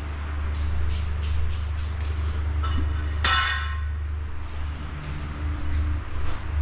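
A few light clicks, then a single sharp metallic clink that rings briefly about three seconds in, over a steady low hum.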